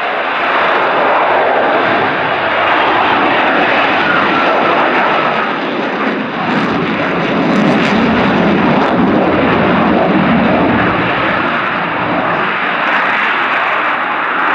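Loud, continuous jet noise from the RAF F-35B Lightning II's single F135 turbofan during a display pass, swelling a little after the middle.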